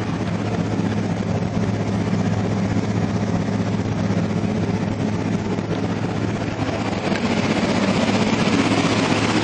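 Four Kicker 15-inch L7 subwoofers in a sealed enclosure playing a 30 Hz bass test tone at high volume, a steady pulsing drone. It gets louder about seven seconds in.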